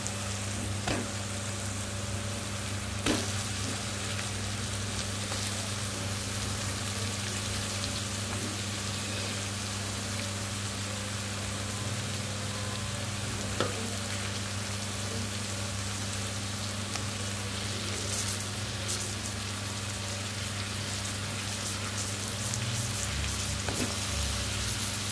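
Raw chicken pieces and onion-tomato masala frying in a pan, a steady sizzle with a low hum underneath. A few light knocks come through, about 1, 3 and 13 seconds in.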